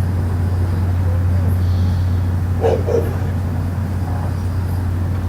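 A steady low droning hum, the unexplained 'strange sound' being recorded. A dog barks twice, briefly, about two and a half seconds in.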